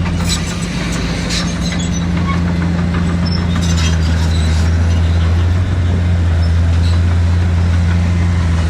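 Heavy diesel earthmoving machine running at a steady low engine note that shifts slightly a little under four seconds in, with a few sharp metallic clanks in the first few seconds.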